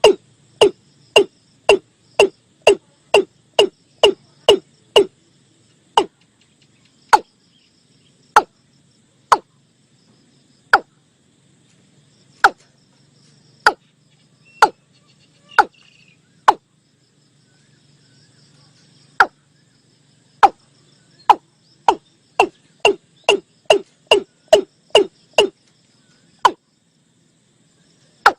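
Watercock call played as a hunting lure: a series of short, hollow notes, each dropping in pitch. They come about three a second at first, slow to single notes spaced a second or more apart in the middle, then speed up again before slowing near the end.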